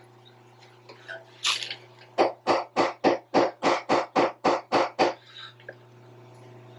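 Hammer striking steel, a quick run of about eleven ringing blows, roughly three or four a second. It is driving at the roller's stuck chain-case tensioner, which isn't budging.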